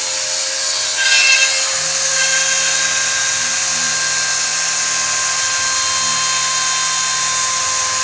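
Homemade CNC router's spindle motor whining steadily at speed, just after spinning up, with a lower hum joining about two seconds in.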